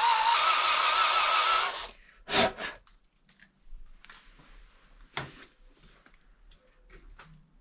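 Electric drill running under load while cutting a countersink in the handlebar, its whine wavering and stepping up in pitch, then stopping about two seconds in. After it, a loud knock, scattered light clicks and taps, and a second knock about five seconds in.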